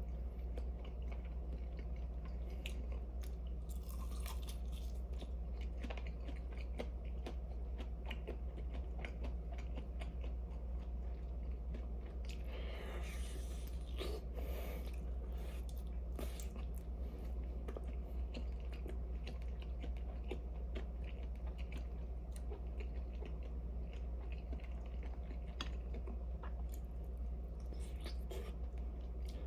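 A person chewing and biting food close to the microphone, with small crunches and clicks scattered throughout and a few louder, longer bites in the middle. A steady low hum runs underneath.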